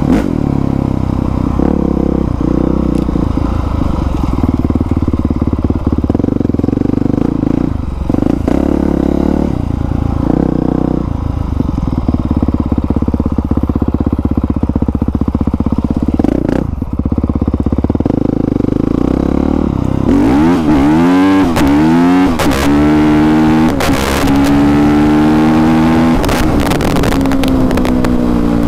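2020 Honda CRF450R dirt bike's single-cylinder four-stroke engine, with an aftermarket exhaust, running at low revs for about twenty seconds, then revving up and down in several rising pitch sweeps as the bike accelerates through the gears.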